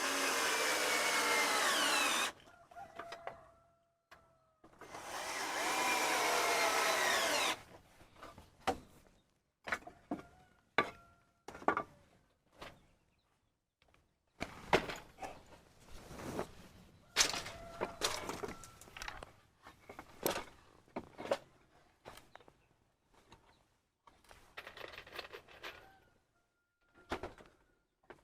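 A handheld power tool runs twice near the start, each burst about two and a half seconds long with its pitch shifting. Scattered knocks and taps of wood being handled follow, and a chicken clucks faintly now and then.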